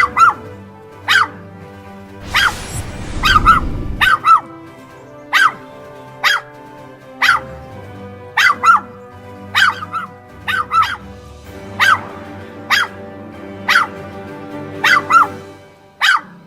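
A dog barking over and over in single sharp barks, roughly one a second and sometimes in quick pairs, with steady background music underneath. A short rushing noise swells and fades a few seconds in.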